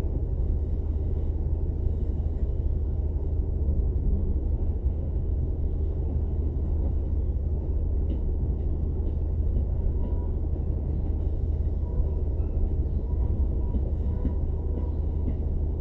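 Cabin noise of a Tobu limited express electric train running on the line: a steady low rumble of wheels on rail and running gear.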